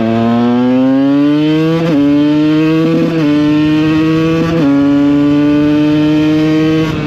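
KTM EXC 125 two-stroke single-cylinder engine pulling under load: the pitch climbs, then drops sharply three times as gears are shifted up, about two, three and four and a half seconds in, before holding steady.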